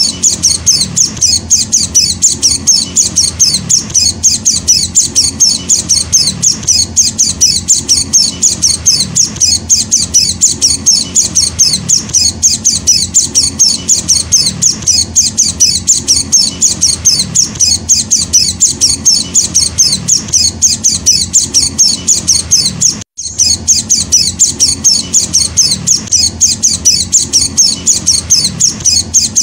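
White-eye (Zosterops) chick calling in a rapid, steady series of short high chirps, the insistent calls of a young hand-fed bird, with one brief break about three-quarters of the way through.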